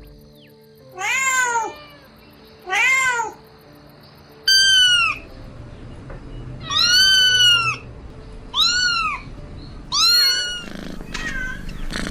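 Kitten meowing: six high-pitched calls, each rising and then falling in pitch, with a longer, drawn-out one about halfway through.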